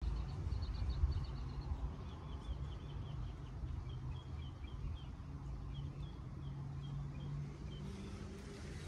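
Small birds chirping, a long run of short high chirps, over a low steady outdoor rumble.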